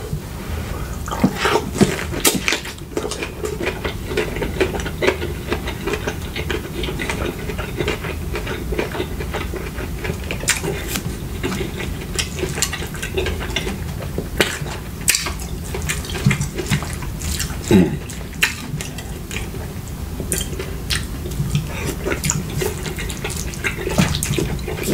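Close-miked chewing and wet mouth sounds of someone eating a burrito bowl, with scattered clicks of a spoon against the bowl.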